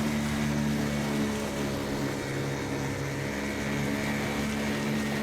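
Motorboat's outboard engine running steadily at constant speed, a loud even drone with a strong low hum.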